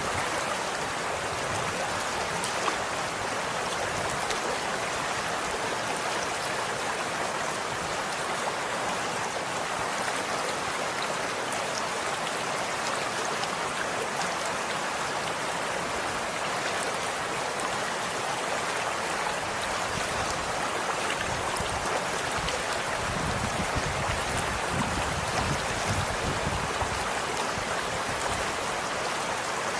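Running water in a stream, a steady even rush with a deeper burbling for a few seconds past the middle.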